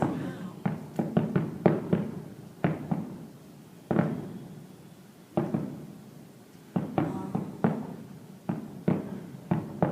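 Distant aerial fireworks shells bursting, each bang echoing and fading. Several come in quick succession at the start, then single booms about a second and a half apart, then another quick string near the end.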